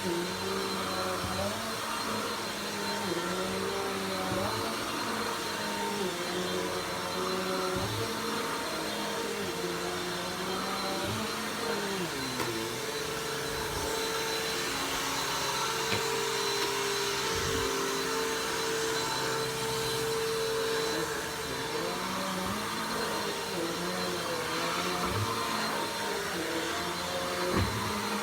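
Vacuum cleaner running continuously, its motor pitch wavering up and down, with a few brief knocks, the loudest near the end.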